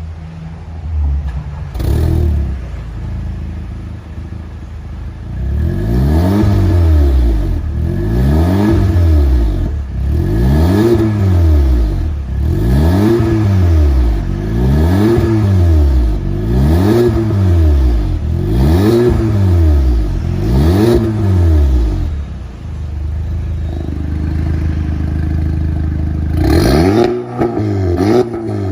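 Audi TT engine through an aftermarket valved exhaust, idling and then revved again and again, each rev rising and falling, about one every two seconds. It settles back to idle, then gives a few quick blips near the end.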